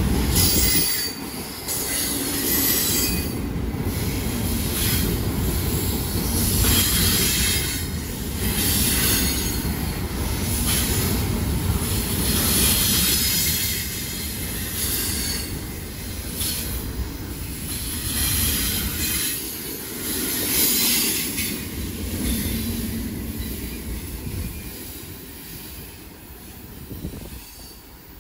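A train's cars rolling past on the rails. The high-pitched rail noise surges every second or two, then dies away near the end as the train recedes.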